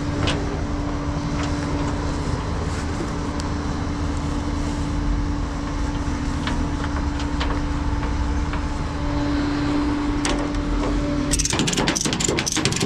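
Vehicle engine running steadily with a constant hum. About eleven seconds in, the hum stops and a rapid run of clicks begins.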